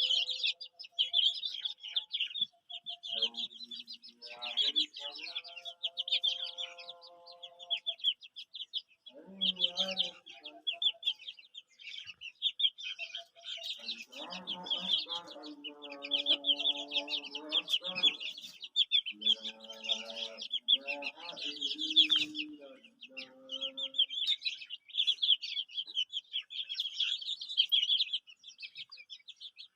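A brood of chicken chicks peeping continuously in a dense, high-pitched chorus, with lower clucking calls from adult chickens breaking in now and then, most through the middle stretch.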